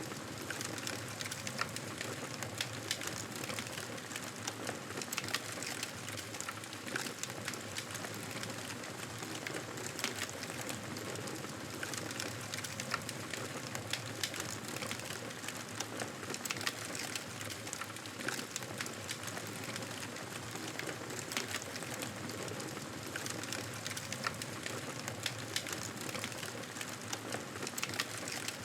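Wood fire crackling in a fireplace: a steady hiss with many short sharp pops scattered throughout.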